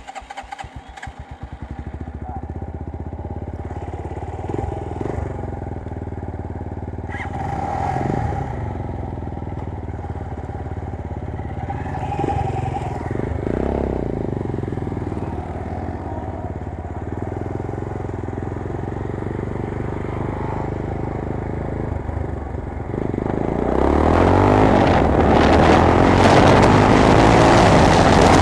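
A 250 cc Chinese sport motorcycle's engine catches and starts, then idles with several short blips of the throttle. About 23 seconds in, it revs up and gets louder as the bike pulls away, with wind on the microphone.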